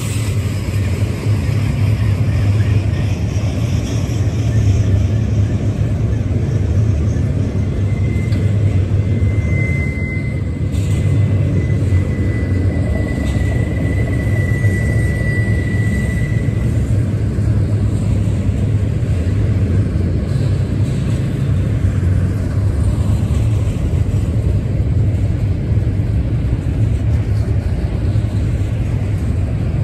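Double-stack intermodal freight train rolling past: steady rumble of steel wheels on the rails as the loaded container well cars go by. A thin high squeal rises for several seconds about a third of the way through.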